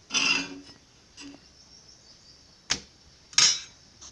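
Short, sharp kitchen sounds at a dosa griddle: a loud hiss at the start and another near the end, with a fainter one about a second in and a single sharp click between them.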